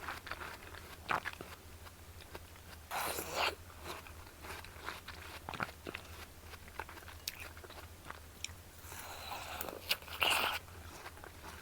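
Watermelon being bitten and chewed close to the microphone: crunchy, juicy bites about three seconds in and again near the end, with wet chewing clicks between.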